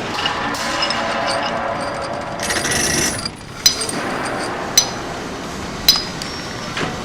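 Workshop noise of metal tools working on engine parts, over a steady mechanical hum. Three sharp metallic clinks come about a second apart in the second half.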